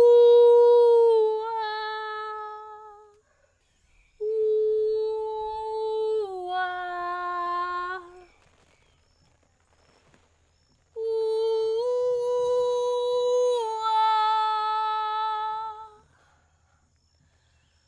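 A woman's voice holding long wordless hummed notes in three phrases. Each note is held at a steady pitch, then steps up or down partway through, with short silences between the phrases.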